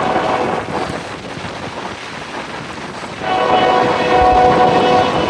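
Freight locomotive air horn sounding a chord of several steady tones in two blasts: a first one ending just under a second in, then a longer one starting a bit past three seconds in. A steady rushing noise runs underneath.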